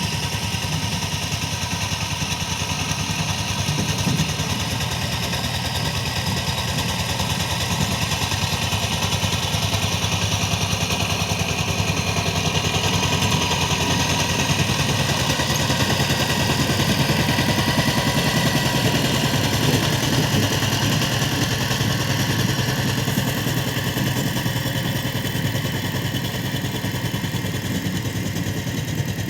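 Power tiller engine running steadily with a fast, even firing beat.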